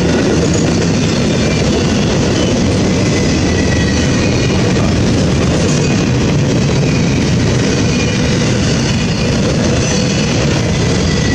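Florida East Coast Railway intermodal freight train's container-laden well cars rolling past at speed: a loud, steady rumble of steel wheels on rail.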